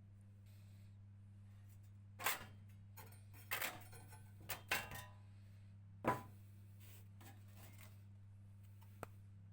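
A handful of short knocks and clatters, as of small metal parts being handled and set down during workshop work, over a steady low electrical hum.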